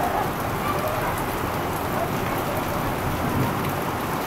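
Heavy thunderstorm rain pouring down steadily through the trees.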